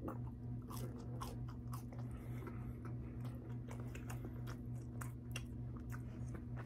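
Close-up mouth sounds of a person eating: chewing with many short, crisp crunches and clicks, over a steady low hum.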